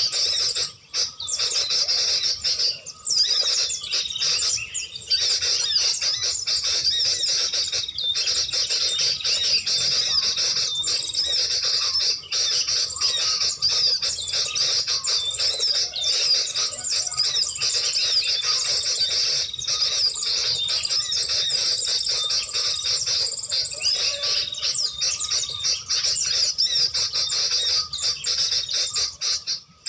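Small birds chirping and calling without a break, many quick high calls overlapping.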